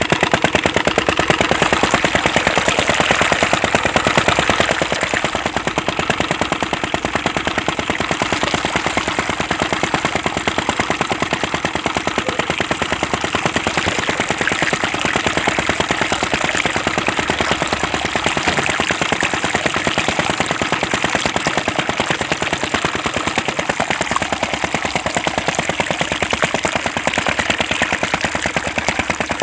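Small homemade engine of a DIY water-pump model running steadily with a fast, even knocking rattle.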